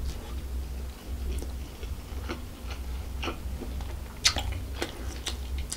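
Close-miked chewing of a mouthful of tandoori roast chicken, with scattered small wet mouth clicks and a few sharper clicks about four seconds in. A low steady hum runs underneath.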